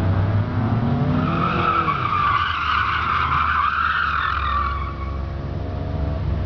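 Car drifting: the engine revs up, then the tyres squeal for about four seconds, and the engine note comes back as the squeal fades near the end.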